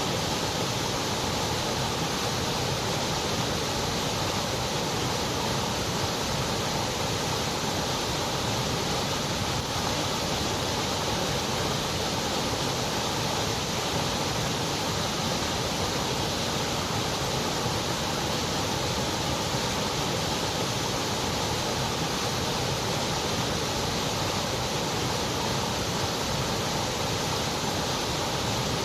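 Continuous white noise: a steady, even hiss spread from low to high pitches, with no change at all.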